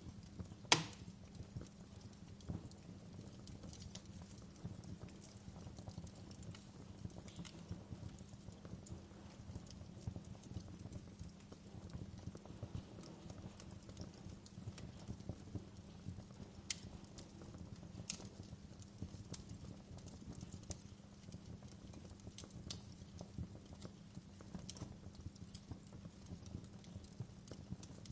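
Fire crackling, with scattered sharp pops and snaps over a steady low rumble; one louder pop about a second in.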